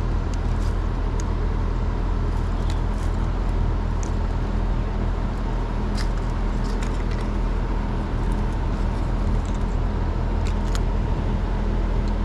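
A steady low mechanical hum, with a few light clicks and ticks scattered through it.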